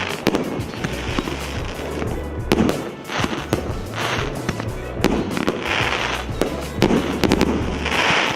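A 1.25-inch, 25-shot firework cake firing: sharp cracks with several half-second bursts of crackle or fizz, over background music.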